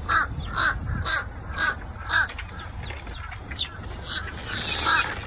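A large flock of birds calling over and over, short repeated calls coming about twice a second.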